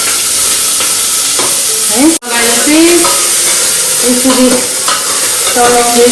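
Onion frying in hot mustard oil in a pan, a loud, steady sizzle as it is stirred, with a split-second break about two seconds in.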